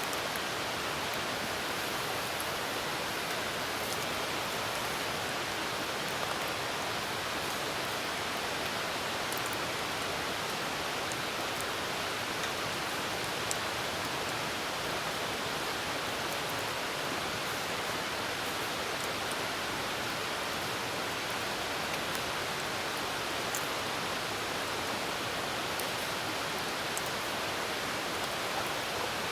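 Steady hiss of falling rain, with faint scattered crackles from a wood campfire.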